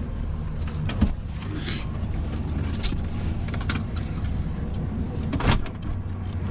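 Landed helicopter running on the ground, a steady low drone, with sharp knocks about a second in and again near the end as passengers climb out.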